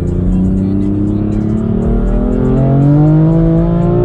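Car engine and exhaust pulling under acceleration, its pitch rising steadily. The exhaust valves are unplugged, so they are held open on the loudest setting.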